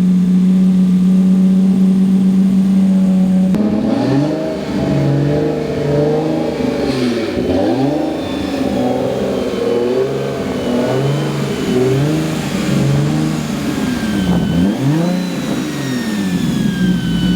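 Turbocharged Infiniti G35's 3.5-litre V6 idling steadily, then, about three and a half seconds in, revved again and again, the revs rising and falling. A high turbo whine slides down in pitch after several of the revs.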